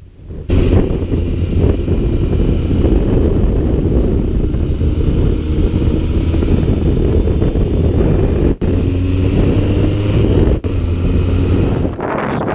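Motorcycle on the move: its engine running steadily, its pitch shifting slightly, under heavy wind rumble on the microphone. The sound breaks off abruptly twice near the end.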